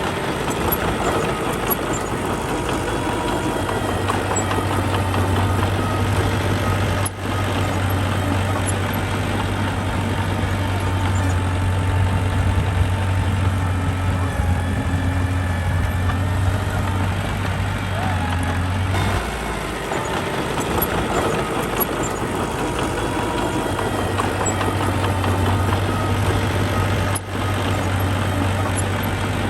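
Diesel engine of heavy earthmoving machinery running steadily with a deep drone. The drone eases off about two-thirds of the way through.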